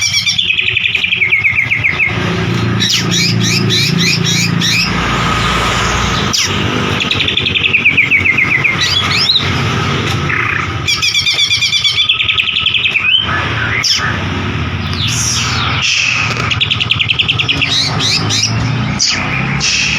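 White-rumped shama singing: loud, rapid repeated phrases of sharp whistled notes and fast rattling trills, one phrase after another with short gaps. A low steady rumble runs underneath.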